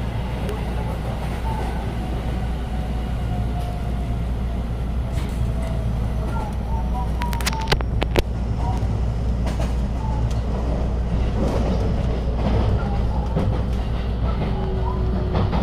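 JR West 223 series 6000-subseries electric train running, heard from inside the car: a steady low rumble of wheels on rail with faint motor whine. A few sharp clacks come a little under halfway through as it runs over rail joints and points, and a faint tone falls slowly near the end.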